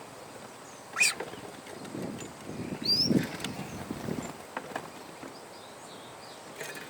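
Outdoor sounds with a short rising bird chirp about three seconds in, along with a sharp knock about a second in and a few low thumps.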